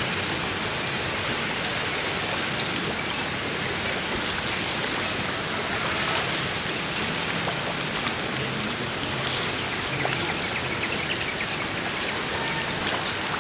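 Steady hiss of falling, splashing water.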